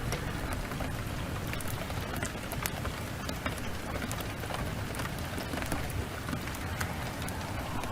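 Heavy rain falling steadily, mixed with the scattered sharp crackles and pops of a wood fire, over a steady low rumble.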